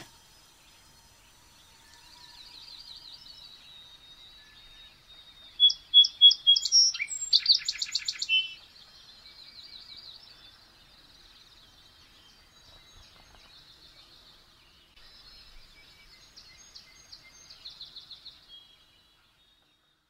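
Small birds singing: high chirps and trills, with a louder run of calls about six to eight seconds in; it stops shortly before the end.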